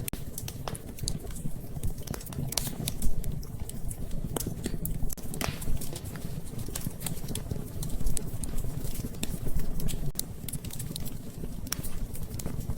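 Wood fire in a fireplace crackling, with irregular sharp pops and snaps over a steady low rumble, and rain pattering.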